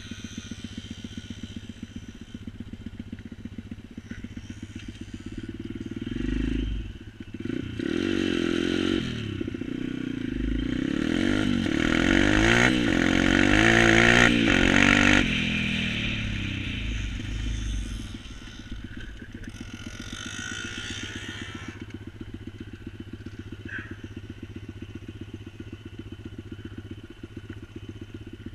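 A pit bike's small engine running at a steady idle pulse. From about 6 s to 16 s it is revved hard, its note sliding up and down and crossing other engine notes, before it drops back to idle.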